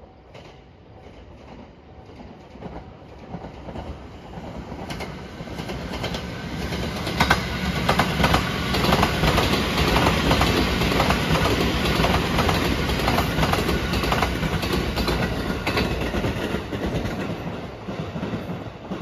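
285 series Sunrise Seto sleeper electric train passing close by, its wheels clacking over the rail joints. The sound builds over the first several seconds, stays loud through the middle and fades near the end as the train moves away.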